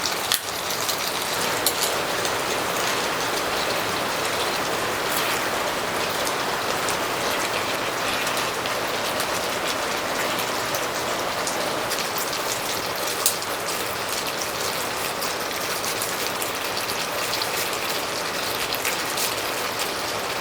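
Heavy rain falling on a tent: a steady hiss with scattered sharp drop ticks.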